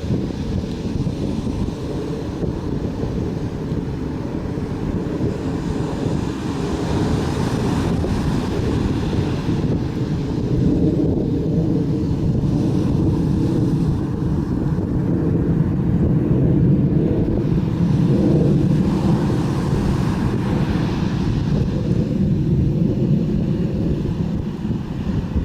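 Wind buffeting the microphone over the steady wash of ocean surf, a deep rumble that grows louder about halfway through.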